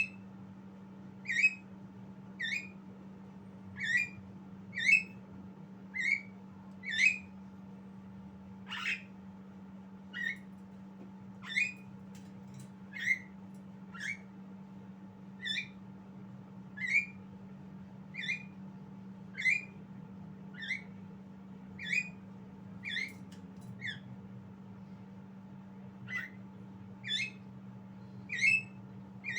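Javan myna giving short, sharp chirps about once a second, each a quick rise and fall in pitch, with a pause of about two seconds near the end. A steady low hum runs underneath.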